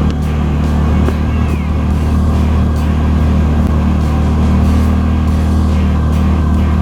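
CFMoto side-by-side's engine running at a steady speed under way, with background music over it.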